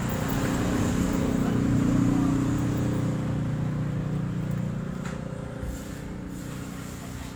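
Truck engine running with a low, steady hum that grows loudest about two seconds in, then gradually fades.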